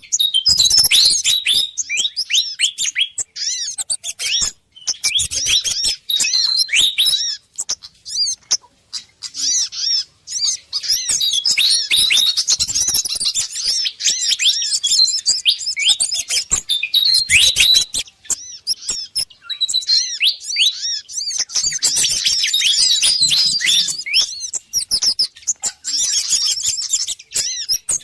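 Bird-lure recording of an agitated Malaysian pied fantail calling, mixed with the calls of sogon and kemade birds: dense, rapid high-pitched chirps and chattering with a few short pauses.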